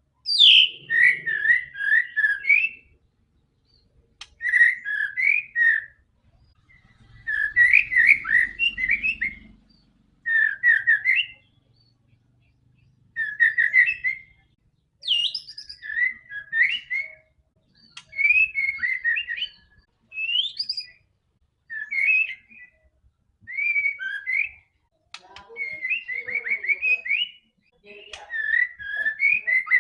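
White-rumped shama (murai batu) singing in full voice: phrases of rapid whistled notes, each a second or two long, repeated with short pauses between them.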